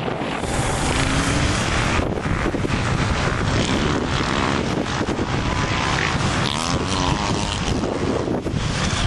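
Motorbike running outdoors, its pitch rising and falling, under heavy wind noise on the microphone.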